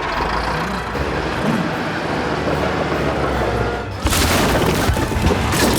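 Loud rushing, rumbling cartoon sound effect over music, stepping up louder and brighter about four seconds in.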